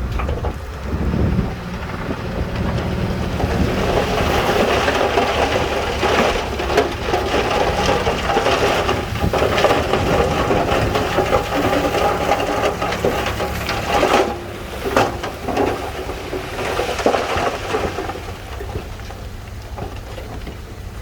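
Diesel engine of heavy earth-moving machinery running steadily under a long, dense rattling clatter of stone and rock shifting and tumbling. The clatter builds a few seconds in and eases off near the end.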